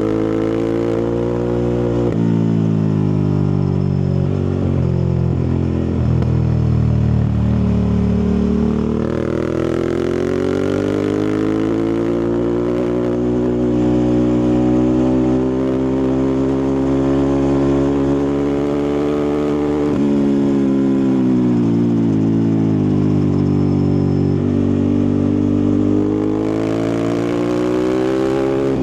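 Ducati Multistrada 1260's 1262 cc Testastretta V-twin engine and exhaust running, its pitch rising and falling with engine speed. There is a drop about two seconds in, a long steady climb through the middle, a fall, and another climb near the end.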